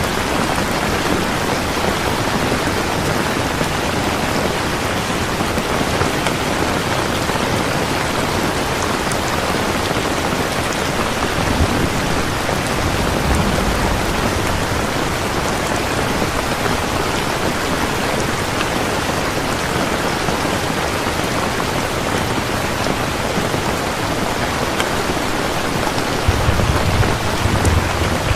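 Steady heavy rain falling. Low rumbles of thunder come in briefly near the middle and again near the end.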